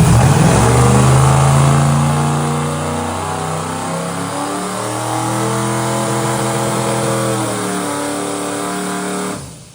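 Twin-turbo NASCAR truck V8 held at high revs on the transmission brake to build boost. A few seconds in it gets quieter as the dump shuts off and the engine is pulled back down. It cuts off sharply near the end.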